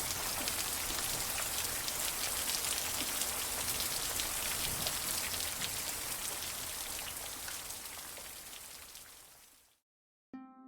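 Steady rain, a dense patter of many drops, fading out over the last few seconds. Just before the end, a few plucked-string notes start.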